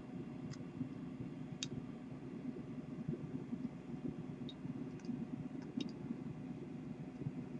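A handful of faint, sharp clicks, irregularly spaced, from small scissors trimming an atomizer wick, over a low steady background rumble.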